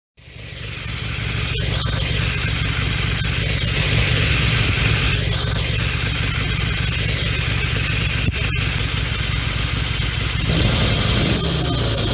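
Big V-twin cruiser motorcycle's exhaust running steadily, fading in from silence at the start; its low rumble changes about ten and a half seconds in.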